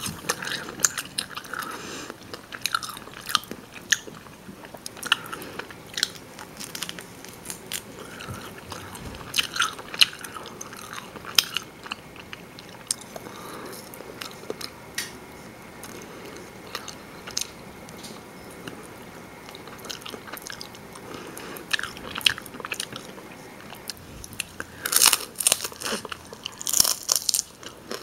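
Close-up chewing of rotisserie chicken: wet mouth clicks and smacks at an uneven pace, with a louder run of them near the end.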